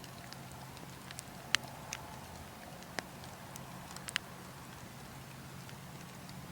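Wood fire crackling, with a few sharp pops about a second and a half in, at three seconds and near four seconds, the first the loudest, over a steady low wind rumble.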